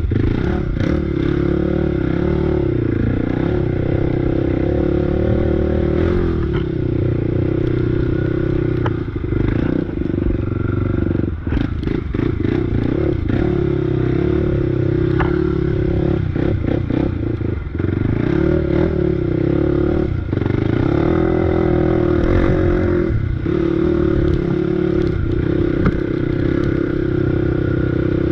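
Off-road bike engine running steadily under throttle on a trail, easing off and picking back up a couple of times in the middle, with rattles and knocks from the bike over rough ground.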